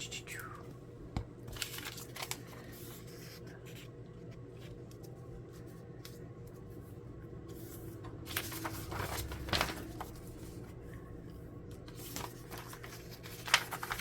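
Paper and cardstock being handled: intermittent rustling and crinkling with a few light taps, in three short clusters, over a steady low hum.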